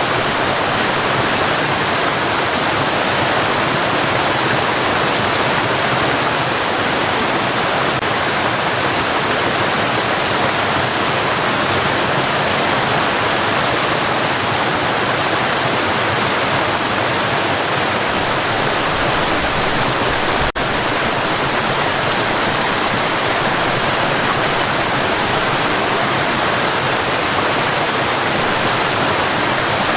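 Steady white noise, an even hiss with no variation, played for a baby's sleep. It drops out for a split second about two-thirds of the way through.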